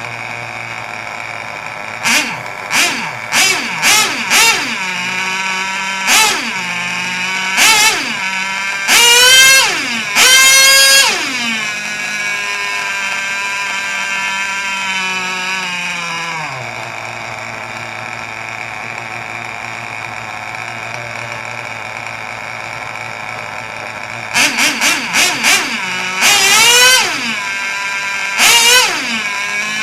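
Small engine of a micro mini pulling tractor running at idle while the throttle is blipped: a quick run of short revs a couple of seconds in, longer revs around ten seconds, then a steady idle that settles a little lower, and more quick blips and revs near the end.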